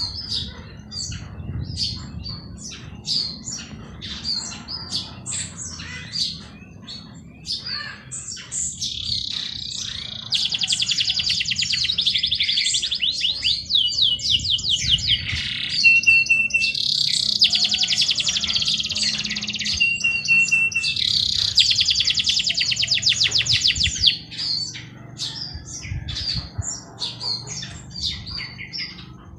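Songbirds chirping, with many short high calls throughout and long, rapid, buzzy trills from several birds between about 9 and 24 seconds in, over faint low background noise.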